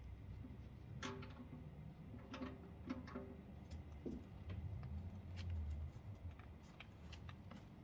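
Scattered light clicks and taps from tools and parts being handled during an oil change, with a short low rumble about five seconds in.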